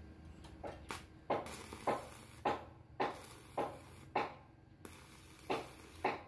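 Repeated sharp metal knocks of a hammer striking the steel rebar frame as it is fitted together, about two a second, with a short pause partway through.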